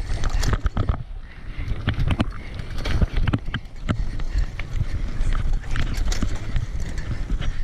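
Bicycle rolling over a rough dirt trail, its parts rattling in irregular clicks and knocks over a steady low rumble.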